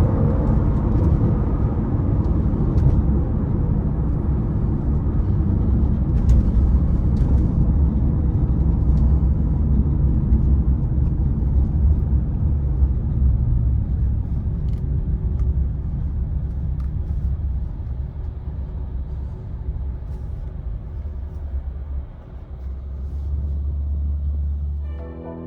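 Mercedes-AMG SL65's twin-turbo V12 and the car's road noise as it drives: a low rumble that fades gradually, leaving a steadier low hum near the end.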